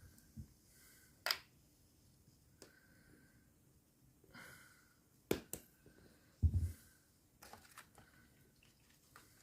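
Scattered clicks and knocks of hand-working, with a low thump about six and a half seconds in and faint breathing between them.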